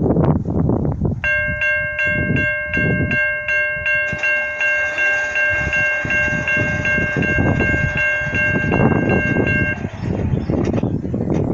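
Amtrak train passing with the horn held in one long chord of several notes for about eight and a half seconds, cutting off near the end, over the continuous rumble of the train on the rails.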